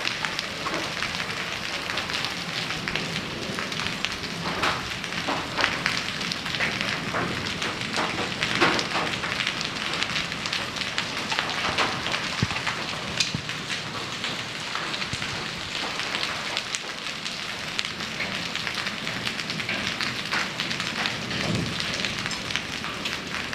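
Heavy rain with hail pouring down, a dense steady patter crowded with sharp cracks of hailstones striking hard surfaces.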